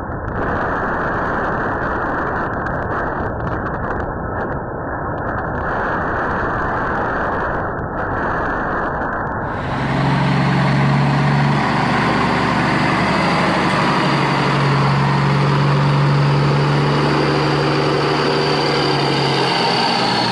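Tornado wind blowing hard past a doorbell camera, heard through its muffled, thin-sounding microphone. About halfway through, the sound switches to a fuller, steady rumble with a low droning hum underneath.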